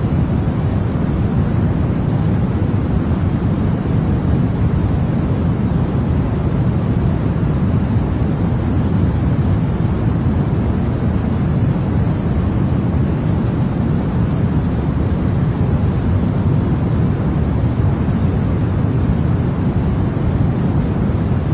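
Continuous white noise: a steady, even rush weighted toward the low end, with no change at all.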